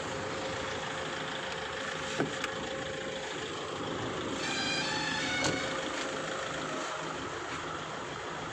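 Car engine idling steadily. A brief high-pitched tone comes about four and a half seconds in, followed by a sharp click.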